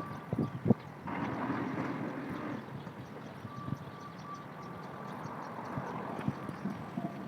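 A repeating high electronic beep, in short even pulses, heard over steady street traffic noise, with a few sharp knocks at the start.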